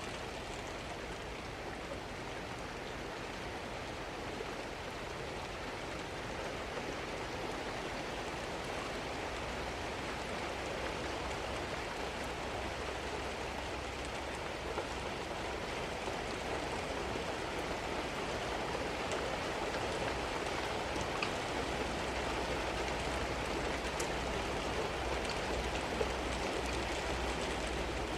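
Steady rain falling, a constant hiss that grows slightly louder over time, with a few faint sharp drip ticks.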